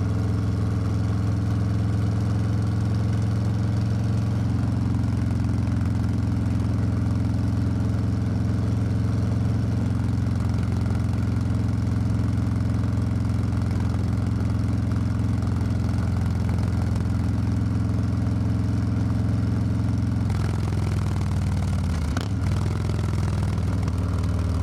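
Harley-Davidson Low Rider S V-twin engine running steadily at constant revs. Near the end its note shifts and briefly dips in pitch.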